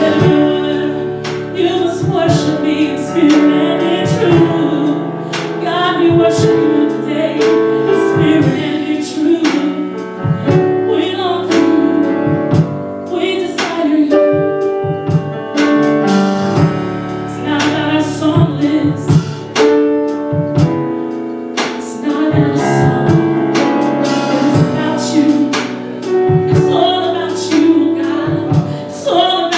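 Gospel worship music: voices singing with keyboard accompaniment and a steady beat.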